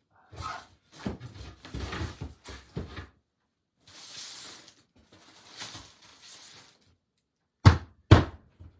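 A loose shelving unit that is coming apart, handled and shifted with irregular clattering and rustling. Two sharp knocks near the end are the loudest sounds.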